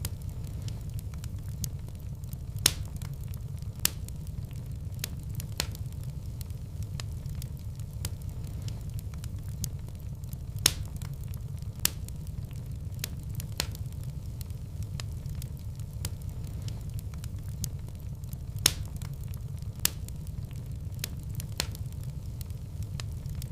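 Fire burning in a fireplace: a steady low rumble of flames with sharp crackles and pops scattered throughout, a handful of them loud.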